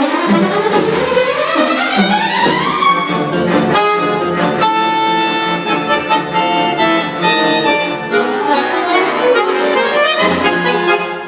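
Accordion with winds and chamber orchestra playing a concerto: rising runs in the first few seconds, then many sustained chords.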